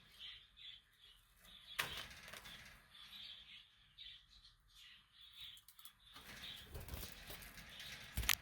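Budgerigars chirping softly in short, scattered notes, with a sharp rustle or knock about two seconds in and a louder one near the end.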